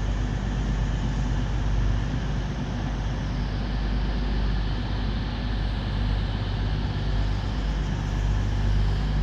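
A pair of East Midlands Railway Class 360 electric multiple units running in, giving a steady hum with wheel and rail noise.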